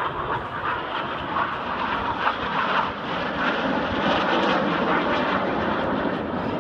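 Jet display aircraft, the Red Arrows' BAE Hawk trainers, flying past with a steady jet roar that grows louder about three seconds in and then holds.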